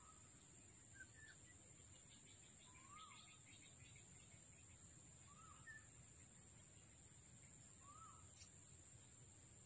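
Faint outdoor ambience: a bird repeats a short rising-then-falling call about every two and a half seconds, four times, with a couple of brief higher chirps, over a steady high-pitched hiss.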